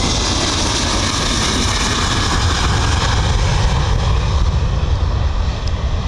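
Boeing 737-800 jet airliner's CFM56 engines running loud as it passes, with a strong low rumble and a high hiss that thins near the end; wind buffets the microphone.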